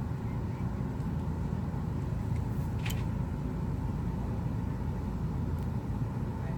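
Steady low background rumble with a faint hum, and one small click about three seconds in.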